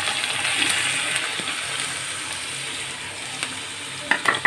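Grated bottle gourd sizzling in hot ghee in a non-stick frying pan: a steady frying hiss, strongest in the first second as the gourd goes in, then settling. A few short knocks near the end.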